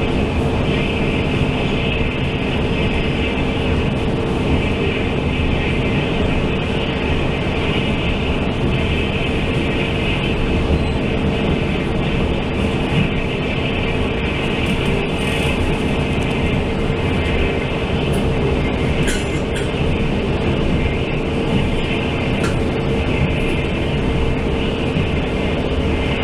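Steady running noise inside a Taiwan Railway Fu-Hsing express passenger coach at speed: wheels on the rails and the rumble of the car, with a steady hum and a few faint ticks in the second half.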